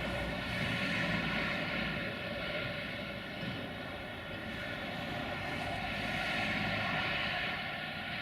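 Freight train's locomotive running with a steady mechanical drone, many even tones over a rushing hiss, with no distinct events.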